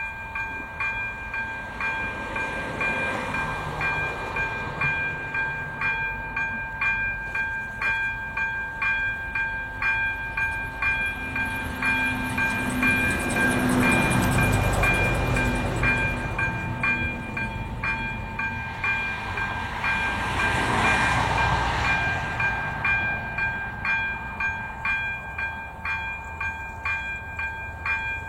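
AŽD ZV02 electronic crossing bell starting up as the level-crossing warning switches on, ringing a steady multi-tone chime at about two strokes a second. Twice the bell is partly covered by a louder swell of passing vehicle rumble, about halfway through and again a few seconds later.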